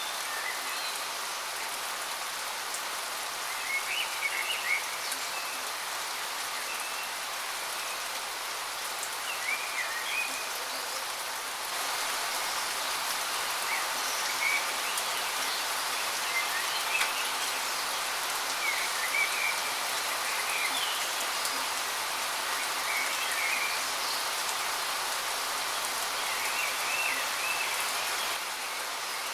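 Steady rushing of a waterfall, with short bird chirps every few seconds over it. The water noise grows a little louder about twelve seconds in and drops back near the end.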